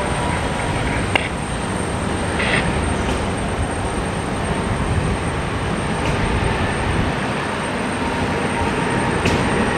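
Jet airliner engine noise: a steady, even rumbling rush with a thin, steady high whine above it, and a few faint clicks.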